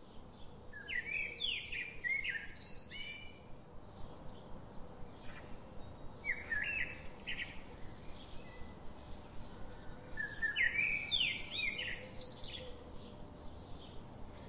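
Birds chirping and singing in three bursts of quick, sliding chirp phrases a few seconds apart.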